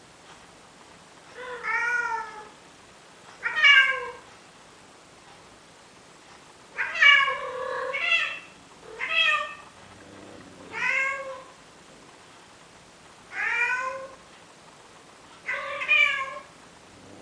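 A male domestic cat meowing repeatedly, about eight drawn-out calls a second or two apart, each sliding down slightly in pitch. These are courtship calls to a female cat, urging her to mate.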